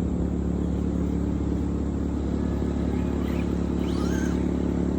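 A steady, unchanging low mechanical drone, like an engine running at constant speed, with a few faint short whistling glides about three to four seconds in.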